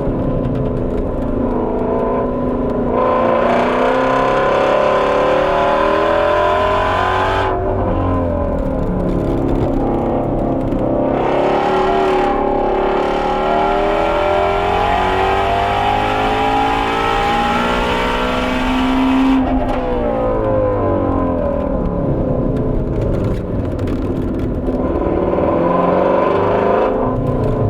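Ford Shelby GT350R's 5.2-litre flat-plane-crank V8 revving hard at full throttle. Its pitch climbs again and again and falls off sharply twice, about seven seconds in and again near twenty seconds, as the car lifts off and comes back on the power.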